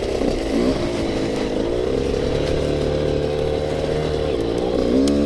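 Yamaha YZ85 two-stroke dirt bike engine under way on a trail: the revs climb over the first couple of seconds, hold steady, then drop and pick up again near the end.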